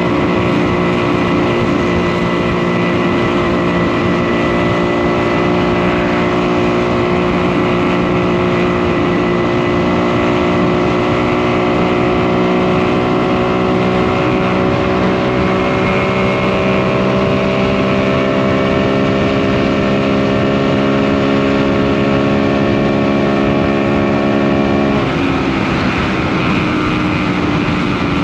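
DKW RT 200H two-stroke single-cylinder motorcycle engine running under way at steady cruising revs, its pitch creeping slowly upward. The revs drop sharply near the end.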